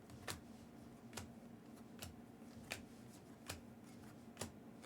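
About six faint, sharp clicks and taps, spaced a little under a second apart, over a faint steady low hum. These are handling noises in a quiet room.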